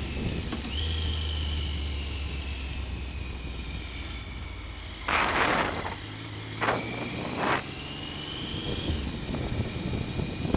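Triumph Sprint ST 955i's three-cylinder engine running steadily on the move, a low hum with a faint high whine that slowly falls and rises in pitch. About halfway through comes a loud rush of wind noise on the camera's built-in microphone, then two shorter ones, and the engine's hum changes pitch.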